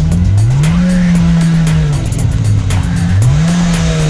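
Ferrari F355 Spider's V8 revving as the car pulls away: the engine note rises and holds for about a second, drops back, then rises again near the end.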